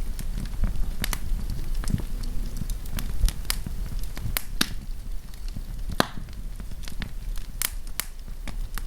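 Wood fire crackling, with irregular sharp pops and snaps over a low, steady rumble of burning.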